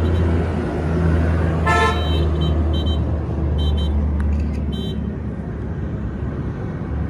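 Truck engine running with a steady low hum, and a short horn toot about two seconds in.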